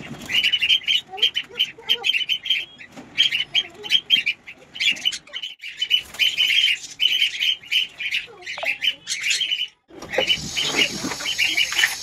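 A room full of caged pet birds calling: rapid, overlapping, shrill squawks and chirps, several a second. The sound drops out briefly about ten seconds in, then the calls return with a hiss behind them.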